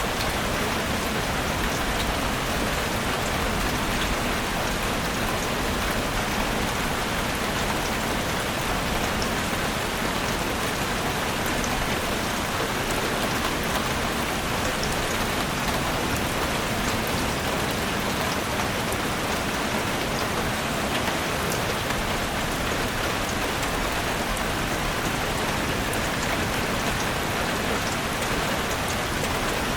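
Steady rain falling on forest foliage and ground: an even hiss of rain with scattered individual drops ticking.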